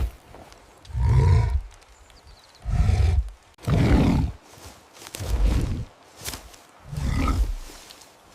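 A creature's deep, breathy vocal sounds in six short bursts, each under a second, coming about a second apart.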